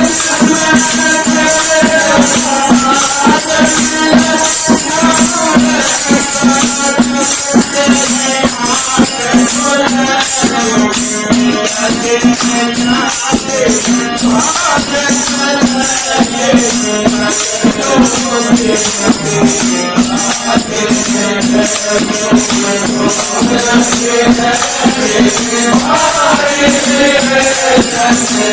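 Devotional bhajan music: a bending melody over a steady held drone, with fast rattling hand percussion throughout.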